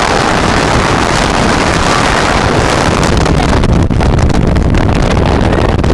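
Loud, steady wind blowing across the microphone in the open back of a moving truck, mixed with road and vehicle noise.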